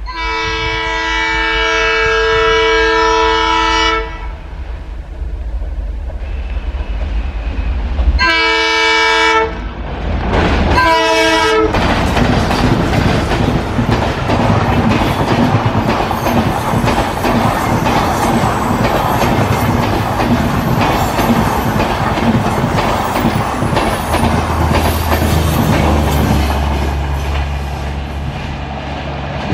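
Diesel locomotive's multi-tone horn sounding one long blast of about four seconds, then two shorter blasts, followed by a diesel-hauled express train passing close by at speed, its wheels clattering over the rail joints and a low engine drone near the end.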